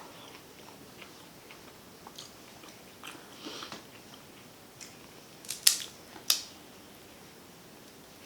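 A person eating seafood boil: quiet chewing with scattered sharp clicks, the two loudest a little past the middle.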